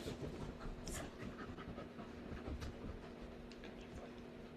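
Faint room noise with a steady low hum, a sharp click at the very start and soft, irregular breath-like sounds.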